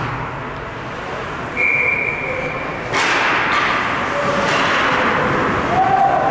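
Ice hockey game noise in an arena, with a sharp crack about three seconds in that rings on, as of a puck or stick striking the boards. A short high tone sounds briefly about a second and a half in.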